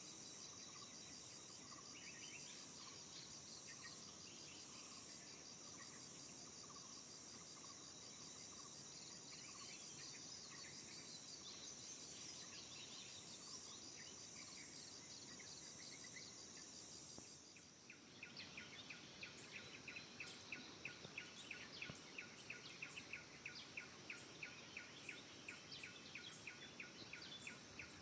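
Forest ambience: insects trill steadily and birds call now and then. About eighteen seconds in it changes abruptly to a fast, even series of short chirps, several a second, with brief high notes above.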